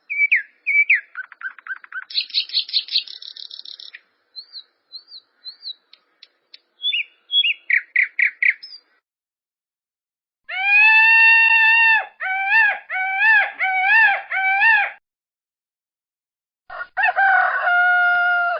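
Bird calls: a run of short chirps and trills for the first several seconds, then from about ten seconds in a loud, long pitched call followed by five shorter calls that rise and fall, and another pitched call near the end.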